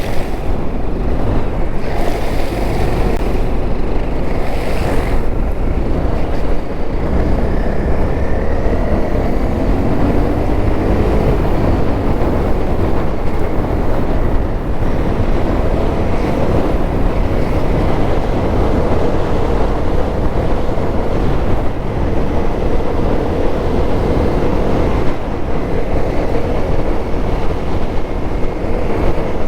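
Honda CRF250L's single-cylinder four-stroke engine running under way, with heavy wind noise on the microphone. The engine pitch climbs around eight to twelve seconds in, then holds fairly steady.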